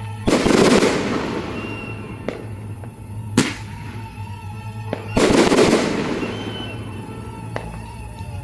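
Aerial fireworks bursting: two big booms, each spreading into crackle that fades over about a second, and a single sharp bang between them, with a few smaller cracks. Music plays underneath.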